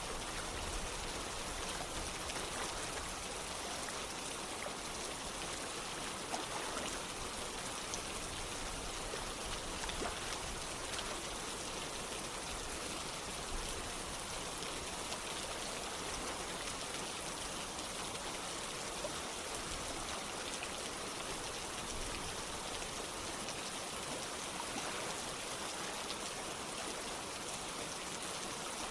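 Steady rain and running water with an even hiss, a few louder drops standing out now and then.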